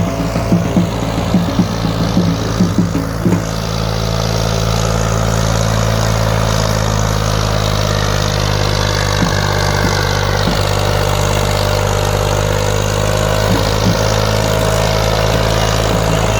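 Massey Ferguson 240 tractor's three-cylinder diesel engine running, with uneven pulsing for the first few seconds, then settling into a steady, slightly louder run from about four seconds in.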